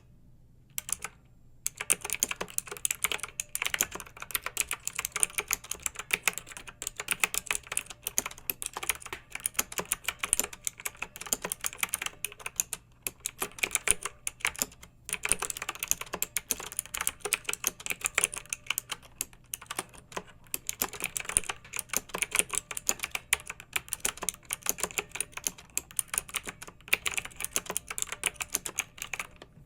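Clicky mechanical keyboard being typed on in fast, uneven bursts of keystrokes, with a short pause near the start and a few brief pauses along the way.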